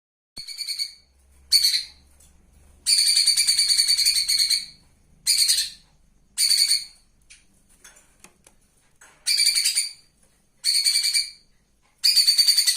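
A cucak cungkok songbird singing in short, high-pitched bursts of fast, rattling repeated notes, about eight phrases with brief pauses between them, the longest lasting nearly two seconds.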